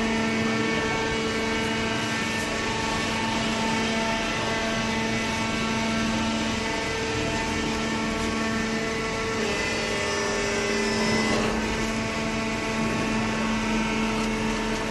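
Hydraulic paper baler running: a steady humming whine from its motor and pump, shifting slightly in pitch about nine and a half seconds in.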